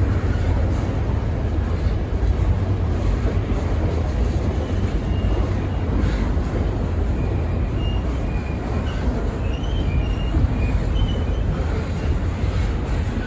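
Freight train passing, its cars rolling by with a steady low rumble.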